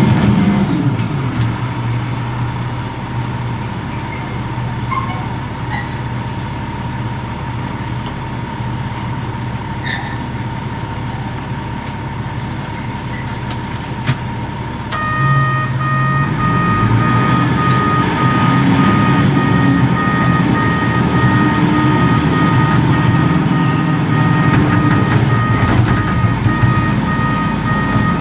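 Reach stacker's diesel engine running steadily. About halfway through, the engine picks up and a high warning beeper starts, beeping steadily until the end, as when the machine travels or reverses.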